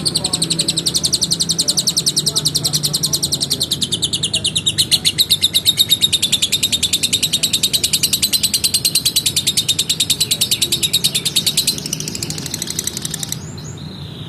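Lovebird singing its long 'ngekek' song: a rapid, unbroken run of shrill repeated chattering notes that goes on for about twelve seconds, then changes and breaks off shortly before the end.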